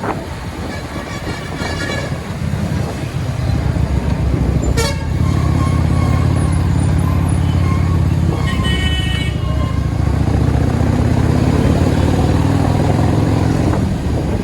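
Highway traffic heard from a moving motorcycle: a steady engine drone that grows louder about five seconds in, with vehicle horns honking twice.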